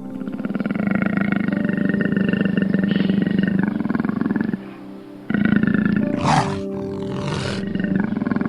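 A big cat roaring and growling: a long, rapidly pulsing growl for about four and a half seconds, a short break, then more growling with two short harsh bursts. Soft background music runs underneath.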